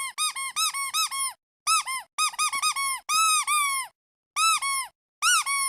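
Squeaky duck toy being squeezed repeatedly, giving quick runs of short squeaks that each rise and then fall in pitch. The squeaks come in several clusters with brief pauses between them.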